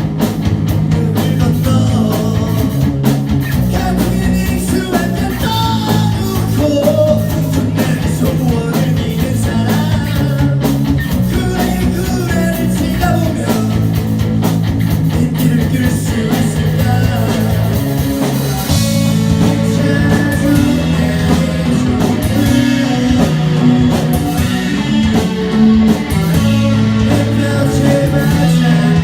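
Live rock band playing: electric guitars, bass guitar and drums, with a singer's voice in the mix.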